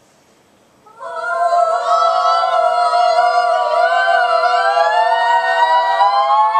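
Several high voices singing one long held chord together, unaccompanied, with slight wavers in pitch. It starts about a second in.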